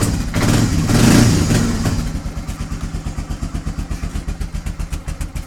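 1997 Honda FourTrax 300 4x4 ATV's air-cooled single-cylinder engine running just after a cold start. It is revved briefly about half a second to two seconds in, then drops back to an even idle with a steady exhaust beat. The cold engine is running without choke.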